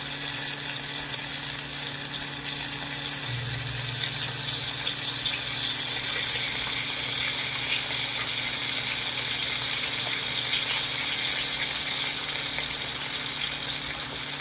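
Breast chicken pieces sizzling steadily as they fry in hot oil in a pan, with a low steady hum underneath that grows louder about three seconds in.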